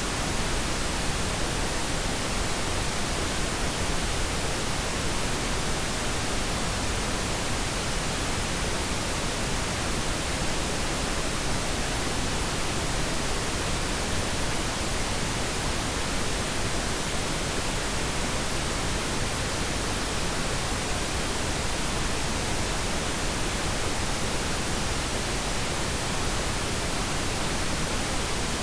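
Steady pink noise: an even, unchanging hiss spread across all pitches, softer in the highs than white noise.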